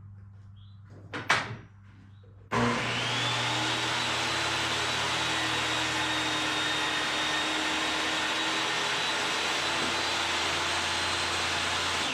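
A knock, then an electric power saw switched on: its motor whine rises to full speed about two and a half seconds in and runs steadily, starting to wind down at the very end.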